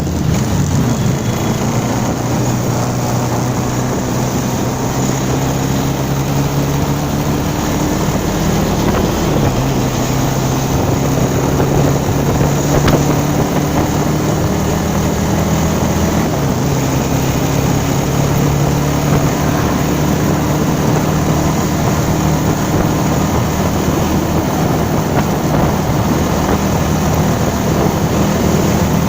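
Motorcycle engine under way, its pitch climbing slowly and dropping sharply at each upshift, about three times, with a steady rush of wind on the microphone.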